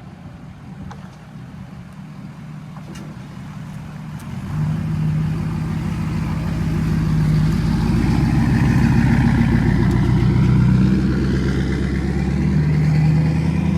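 Truck engine and exhaust running, quiet at first and then much louder from about four and a half seconds in, holding a steady low drone.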